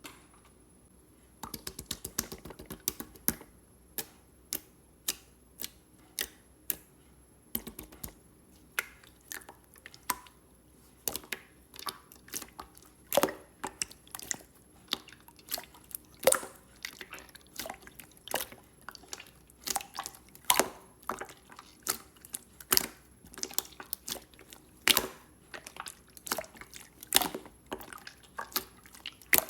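Clear slime being squished and pressed, giving a run of irregular sharp clicks and pops.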